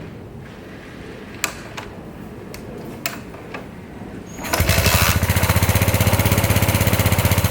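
Yamaha SR400's single-cylinder four-stroke engine catching about four and a half seconds in, then idling with a fast, even thump of roughly ten beats a second. Before it starts there is a low rumble with a few sharp clicks.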